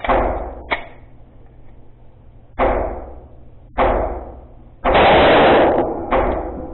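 Glock 43X 9mm pistol firing six shots at an uneven pace, each crack trailing off in a short echo. The second shot is fainter, and the one about five seconds in is the loudest.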